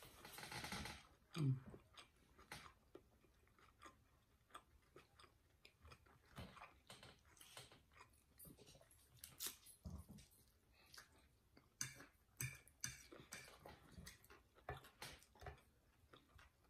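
Faint, close-miked chewing of baked potato and sausage casserole, with scattered small clicks and ticks from mouths and forks on plates.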